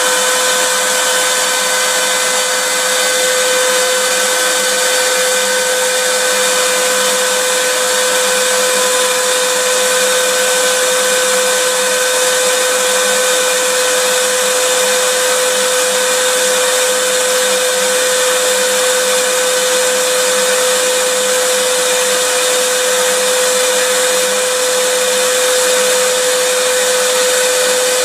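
Vacuum cleaner running steadily: an even rushing hiss with a constant motor whine that does not change.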